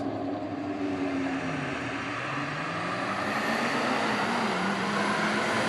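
Engines of a 1985 Pontiac Trans Am and a 1999 Ford dually pickup running at a drag-strip starting line. The pitch dips then climbs as they are revved, and the sound grows louder toward the end.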